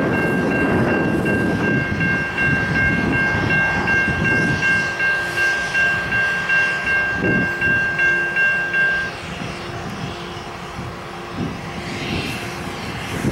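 A CSX diesel freight locomotive rumbling as it leads a long autorack train slowly along the siding. Over it a fast high ringing repeats about three times a second and stops about nine seconds in. After that a quieter, lower tone repeats about once a second.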